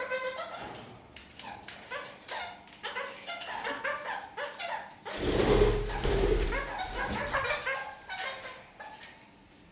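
Red-crowned parakeets (kakariki) chattering in short, squeaky calls. From about five seconds in, a louder, noisier stretch lasts a couple of seconds under the calls.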